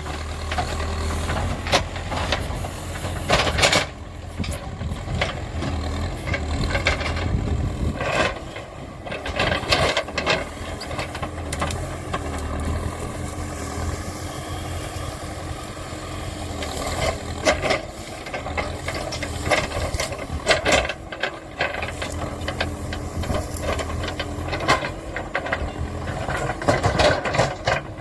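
Diesel engine of a Terex TLB 844S backhoe loader running while the machine works, with repeated sharp metallic clanks and knocks scattered through.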